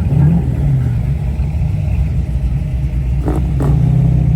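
A car engine running at low revs, given a short rev right at the start, with two brief sharp sounds a little over three seconds in.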